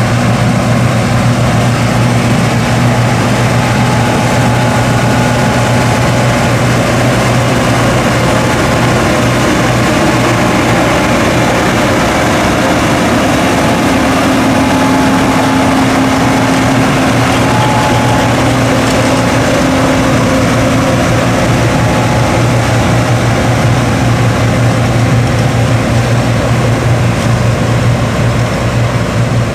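John Deere 8820 Titan II combine running steadily while harvesting wheat: the low hum of its 225-horsepower diesel engine under the whir and rush of the threshing and separating machinery.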